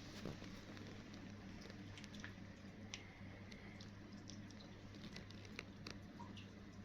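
Kittens eating, heard as faint, scattered little clicks and smacks of chewing over a steady low hum.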